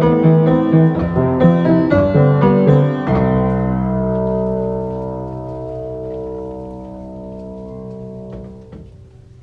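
Solo piano playing the closing bars of a piece: about three seconds of repeated chords, then a final chord held and left to ring, slowly fading until the keys are released near the end.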